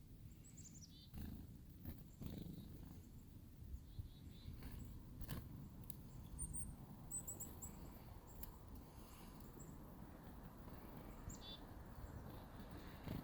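Small wild birds giving short, high, falling chirps a few times, faint over a low rumbling noise with occasional clicks.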